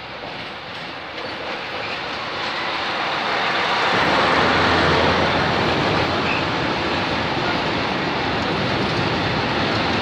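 6Dg diesel locomotive running past at close range, followed by a string of gas tank wagons rolling by on the rails. It grows louder as it approaches and is loudest about four to five seconds in, then carries on as a steady rumble of passing wagons.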